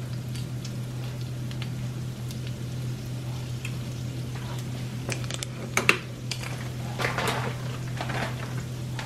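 Corn and shredded chicken frying in a skillet on an electric stove: a faint sizzle with scattered pops and crackles, the loudest pair about six seconds in, over a steady low hum.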